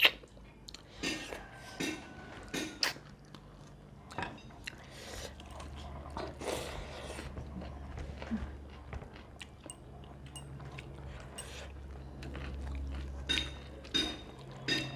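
A person chewing and biting food up close, with irregular crunches and small clicks, while eating a goat meat curry meal with a raw cucumber and onion salad.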